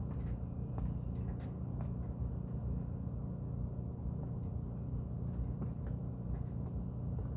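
A steady low mechanical hum, even throughout, with a few faint ticks.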